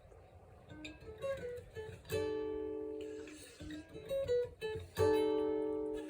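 Acoustic guitar playing a song's introduction: a few picked single notes, then a strummed chord about two seconds in that rings out and fades, more picked notes, and another strummed chord about five seconds in.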